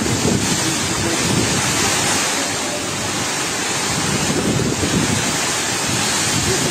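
Strong storm wind blowing hard and buffeting the microphone, a loud continuous rushing noise that swells and eases in gusts.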